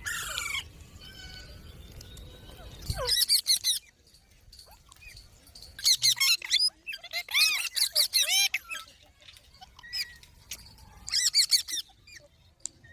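Pet green parrots squabbling: several bouts of harsh screeching calls, each a second or so long, with quieter gaps between.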